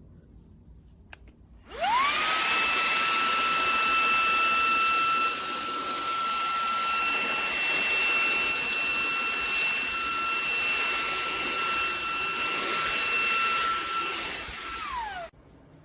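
Shark WV200C WandVac handheld vacuum motor starting with a quickly rising whine and running steadily with an airy rush for about thirteen seconds. Near the end it cuts out abruptly, the whine falling away. The owner says the vacuum keeps shutting itself off even with an empty dust cup and a cleaned filter.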